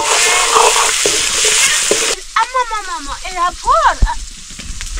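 Chicken curry sizzling in a hot pan; the sizzle cuts off abruptly about two seconds in. Then come a few short, high-pitched calls, each rising and falling in pitch.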